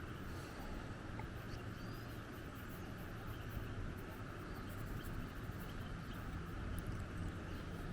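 Outdoor ambience of wind rumbling on the microphone, with faint scratching of watercolor pencil on synthetic paper and a few short, high bird chirps early on.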